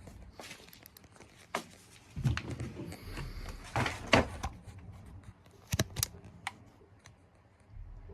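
Scattered clicks, taps and rustling handling noises, with a few sharper clicks in the middle.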